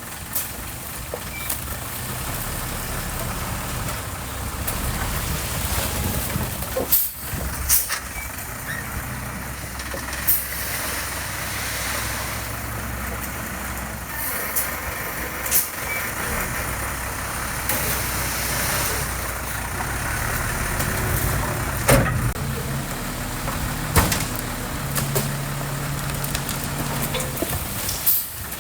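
Diesel engine of heavy construction machinery running steadily, with its note shifting a few times, and several sharp clanks spread through.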